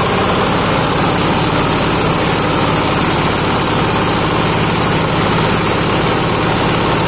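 Fish-waste grinding machine running steadily, a loud, even mechanical din with a low hum underneath.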